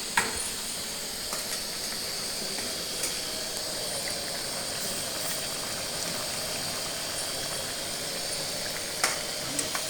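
Chicken and spices cooking in a pan, a steady sizzling hiss, with a sharp clink right at the start and another about nine seconds in.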